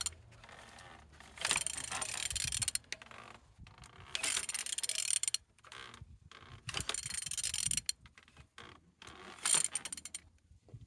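ZMZ engine being turned over, with its internals clicking and whirring in four separate bursts of dense mechanical clicks and short pauses between them, as it turns freely.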